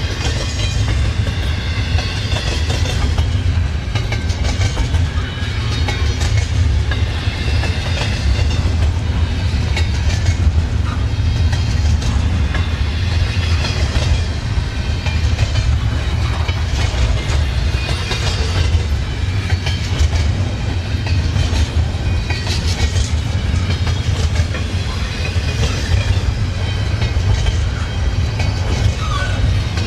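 Freight train cars rolling past, a steady loud rumble with the clickety-clack of wheels over the rail joints.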